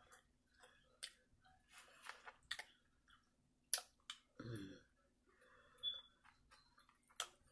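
Quiet close-up eating sounds: chewing with scattered sharp mouth clicks and smacks. A short low vocal sound comes about halfway through.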